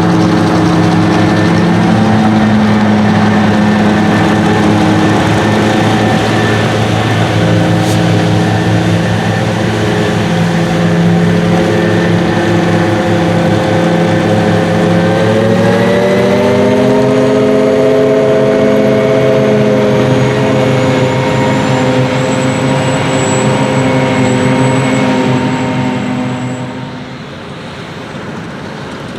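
Heavy diesel engine of silage machinery running steadily, its pitch rising about halfway through as it revs up, then fading away near the end.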